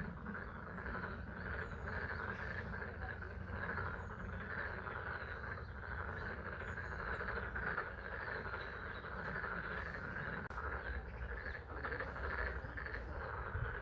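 A chorus of frogs calling continuously at a pond, many overlapping voices in a steady mass, with spring rain and a low rumble beneath.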